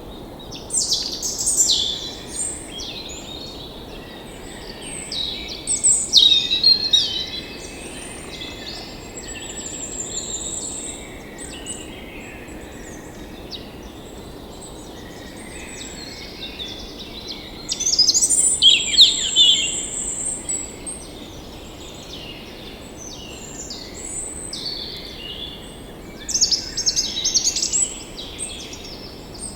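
Songbirds singing and chirping in short phrases every few seconds, over a steady low background hiss of outdoor ambience.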